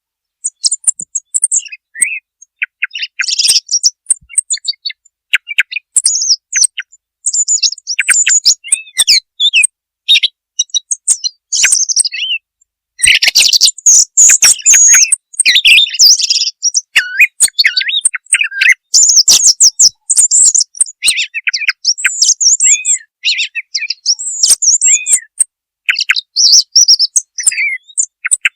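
Song thrush singing: a run of short, varied whistled and chattering phrases, each followed by a brief pause, with a denser, busier passage about halfway through.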